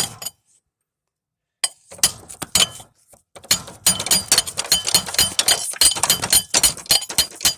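Rapid, irregular metallic clinks and knocks as a stuck pulley is beaten loose from a lawnmower engine's shaft bolt. They start after about a second and a half of quiet.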